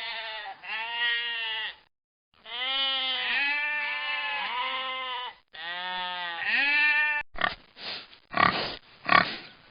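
Sheep bleating: a series of long, wavering, quavering bleats, with a short break about two seconds in. About seven seconds in it gives way to a run of short, rough pig grunts.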